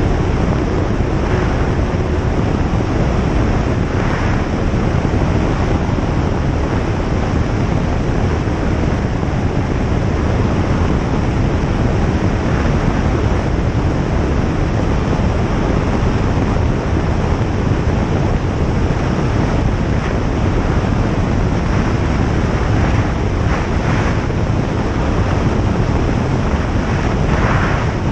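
Single-engine light aircraft in flight: engine, propeller and airflow make a steady, even drone and rush of air that does not change.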